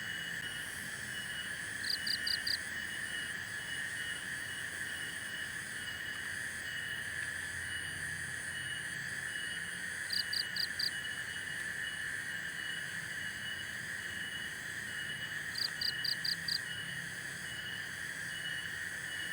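Natural night chorus of insects: a steady high buzzing and a quick, even pulsing chirp. Three times, a run of four or five short, sharp calls stands out above it.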